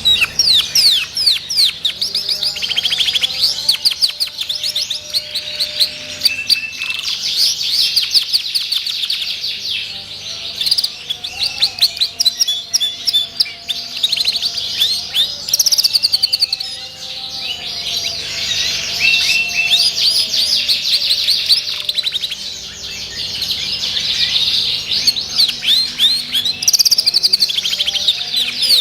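Belgian Bossu canary singing a long, continuous song of rapid high trills and chirps, with a few short lulls.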